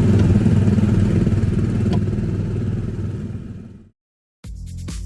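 Small engine of a drivable ride car running steadily, then fading out just before four seconds in. After a short silence, electronic music starts near the end.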